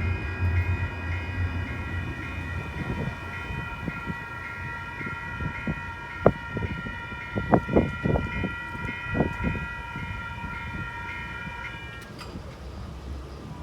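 Railroad crossing warning bells ringing steadily, then cutting off suddenly about twelve seconds in. The low rumble of a passing train fades away in the first few seconds, and a cluster of sharp knocks comes in the middle.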